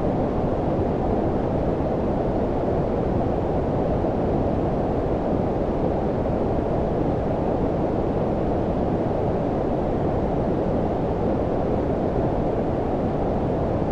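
Steady low-frequency filtered noise, brown-noise-like: an even rushing hiss weighted toward the low end, with no change or events.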